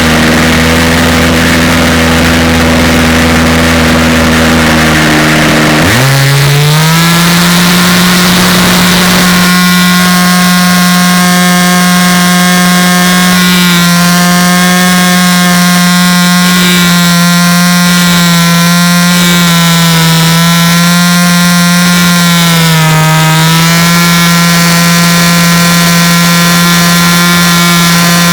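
A motor running with a steady humming pitch, which dips and climbs back about six seconds in and then holds with small wavers.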